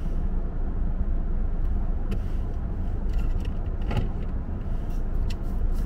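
Steady low rumble of a car heard from inside the cabin, with a few faint light clicks.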